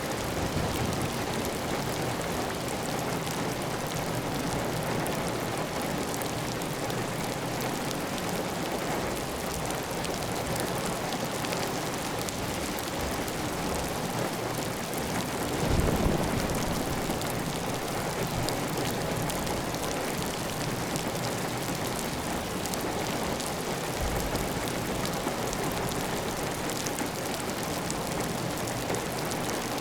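Steady heavy rain on a tiled roof, with water running off the roof edge. A brief, louder low surge comes about halfway through.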